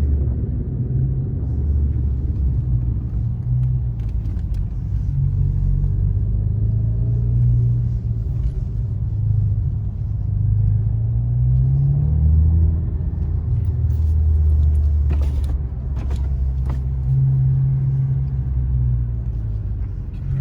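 Alfa Romeo Giulia's turbocharged 2.0-litre four-cylinder with an aftermarket Madness Monza exhaust, heard from inside the cabin while driving: a low, steady rumble whose pitch rises and falls as the car speeds up and eases off, with the strongest climb about halfway through.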